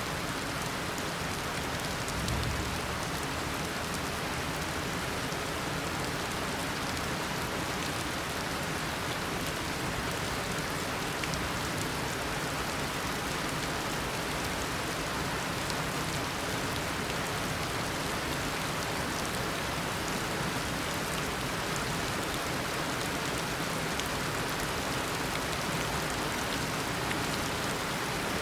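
Heavy tropical rain falling steadily, a dense even hiss of rain on surfaces with fine drop patter; a brief low rumble about two and a half seconds in.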